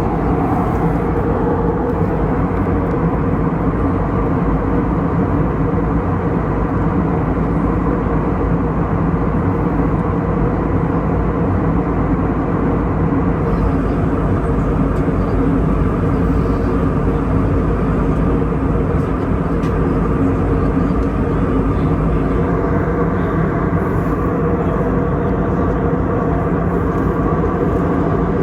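Steady cabin noise inside an Airbus A321neo airliner in flight: an even rush of airflow and engine hum with a few faint steady low tones, unchanging throughout.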